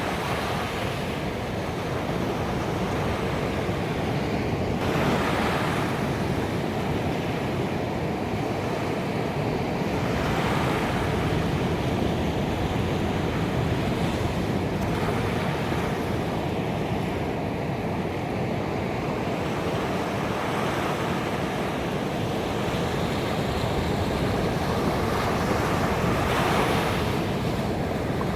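Ocean surf breaking on a beach: a continuous wash of water that swells every few seconds as each wave breaks.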